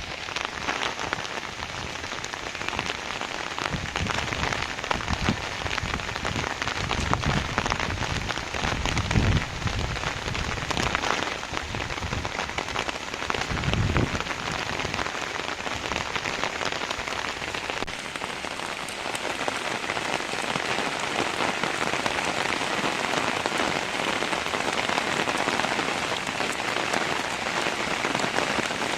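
Heavy rain falling steadily: a dense, even patter of drops on surfaces. A few low rumbles come through in the first half.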